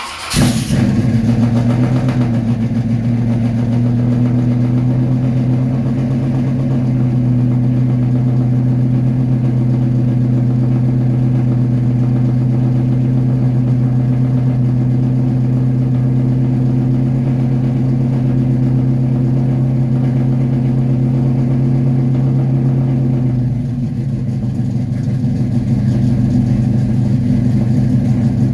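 Car engine cold-starting: it catches with a brief flare of revs, then runs at a loud, steady fast idle. About 23 seconds in, the idle drops slightly lower and settles.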